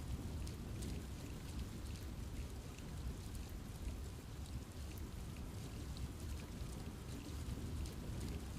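Steady rain falling in a forest, with a low rumbling wash under many scattered drop patters.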